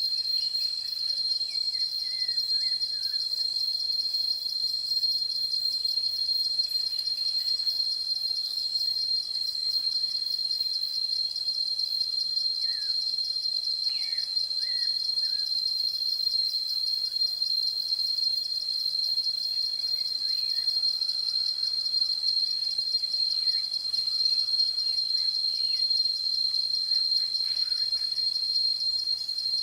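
Forest ambience dominated by a steady, high-pitched, rapidly pulsing insect trill, with faint bird chirps now and then: near the start, around the middle and near the end.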